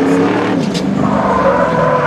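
A vehicle engine running hard, its pitch falling about half a second in and then holding steady.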